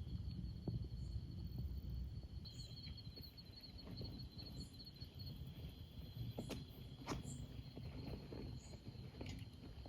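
Insects trilling with two steady high tones, and a faster pulsing trill joining for a couple of seconds about a quarter of the way in. A low rumble sits underneath, and there are a couple of sharp clicks past the middle.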